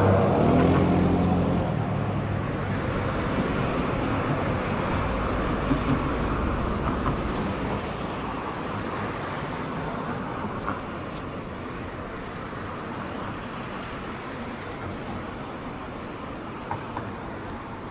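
Road traffic: a motor vehicle's engine close by at the start, fading away over the first second or two, then a steady traffic hum that slowly grows quieter.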